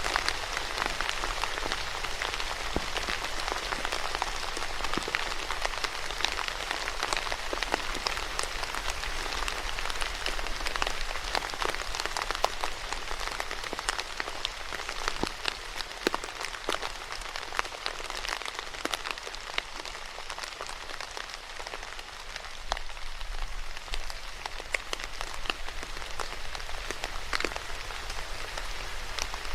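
Steady rain falling on a surface, an even hiss broken by many sharp, distinct drop impacts.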